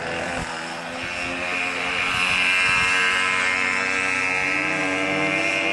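A car engine running hard at high revs on the circuit, heard from trackside. It gets louder through the middle, and its pitch climbs steadily near the end as the car accelerates.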